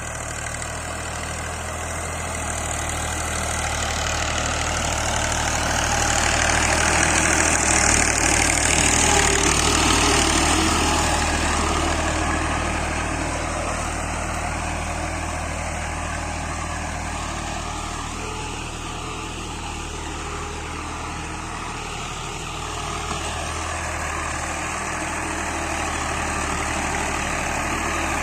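Ghazi model 17 tractor's diesel engine running steadily, swelling louder about six seconds in and easing back after about twelve.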